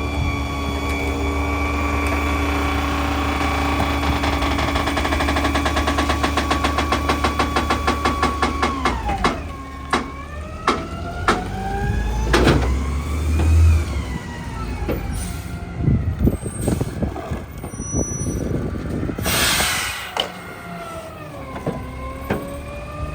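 Mack LEU garbage truck's engine revved to drive the New Way rear loader's hydraulic packer, pulsing steadily at first, then its pitch rising and falling as the packer cycles, with scattered clunks of the blade and trash. A short burst of air hiss near the end.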